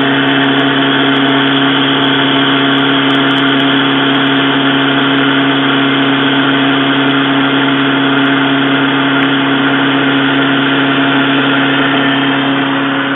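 Metalworking machine tool running steadily under a cut, a constant motor hum with a dense grinding cutting noise over it, while machining the guideway seats in a lathe's cross-slide plate.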